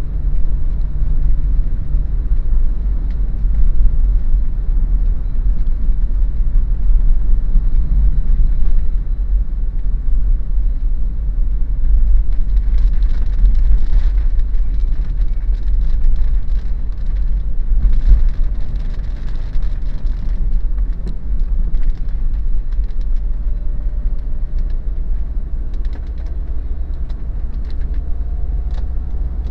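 Daihatsu Terios SUV driving, a steady low road-and-engine rumble, with a brighter hiss and scattered ticks in the middle and a faint rising tone near the end.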